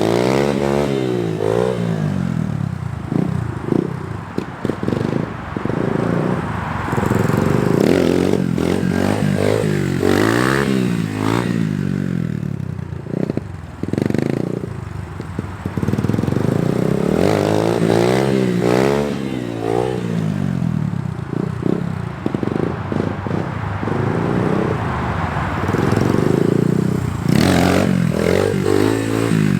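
Small dirt bike engine revving up and falling back again and again, each rise a burst of throttle in first gear to bring the front wheel up for a wheelie.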